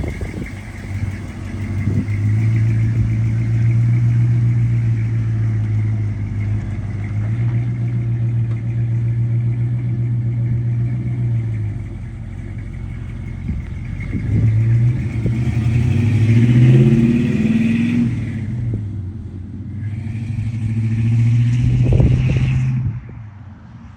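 1986 Chevrolet K10 pickup's engine running, holding a steady note, then climbing and falling in pitch in the middle as it is revved or driven, and steady again before the sound drops off abruptly near the end.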